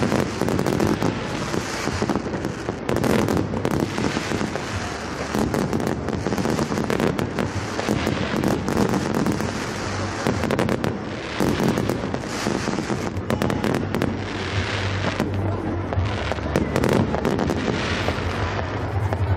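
Fireworks display: aerial shells and rockets going off in a rapid, continuous run of bangs.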